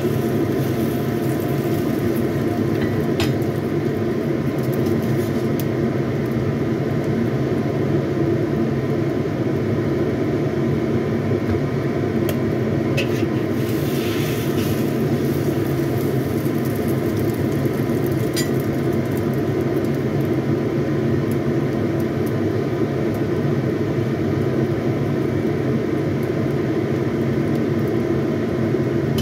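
Egg omelette frying gently in a wok under a steady low kitchen rumble with a faint hum, and a metal spatula clicking and scraping against the wok a few times as the omelette is lifted and turned.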